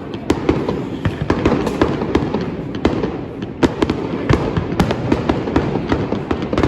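Fireworks bursting: a dense, irregular run of sharp bangs and crackling pops, several a second, overlapping one another.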